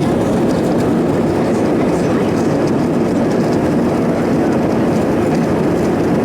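Steady, loud cabin noise of an Airbus A320-214 in its climb after take-off: its CFM56 engines running at climb power together with the rush of airflow around the fuselage, an even low rumble that does not change.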